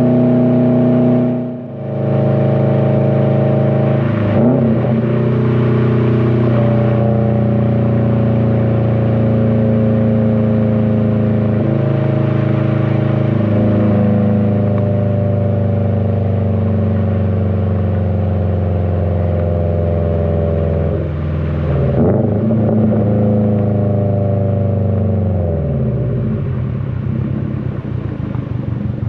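2020 Subaru WRX STI's turbocharged flat-four running through an AWE Track exhaust while cruising: a steady exhaust drone with a brief lift off the throttle about a second and a half in, the pitch sinking slowly through the middle with another break near two-thirds of the way, then the revs fall away near the end to a low, uneven rumble.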